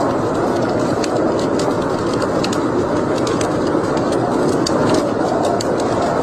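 Wood fire burning in a fireplace: frequent sharp crackles and pops, several a second, over a steady rushing noise.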